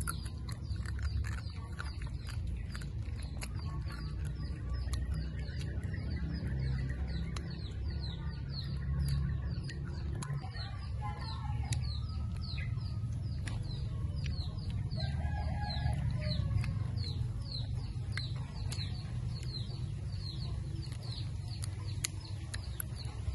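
Close-up mouth sounds of chewing and biting dried banana slices, with scattered small clicks. Behind them a bird repeats a short falling chirp in a steady, rapid series.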